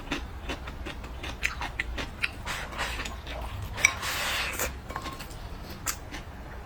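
Close-miked chewing and biting, with many small wet clicks, and a short louder hissing stretch about four seconds in.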